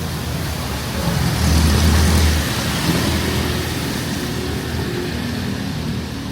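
Traffic on a rain-wet city street: a motor vehicle's engine rumble, loudest about a second and a half in, over a steady hiss of rain and tyres.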